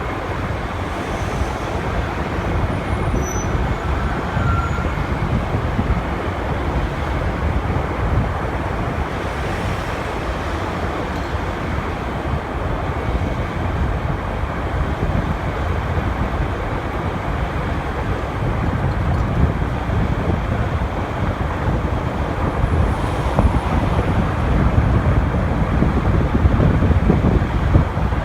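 Riding a motorcycle through city traffic: a steady rush of wind and road noise, with engine and traffic sound underneath, growing a little louder near the end.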